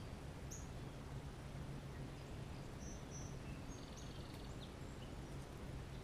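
Faint, distant small birds chirping: a few short high chirps scattered through, and a brief rapid trill about four seconds in, over a steady woodland background hiss and low hum.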